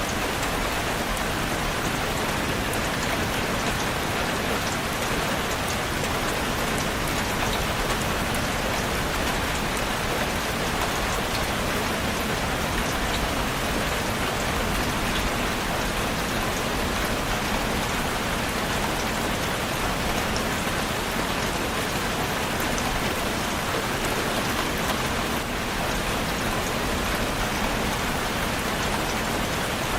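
Steady, even rain falling on a surface, a dense patter of drops with no change in strength.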